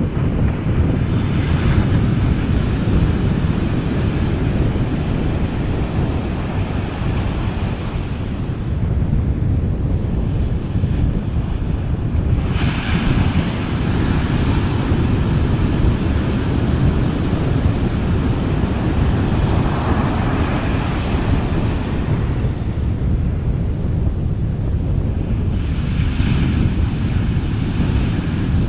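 Sea waves washing onto a beach, with a steady low rumble of surf and wind on the microphone. Softer waves break about every six to eight seconds.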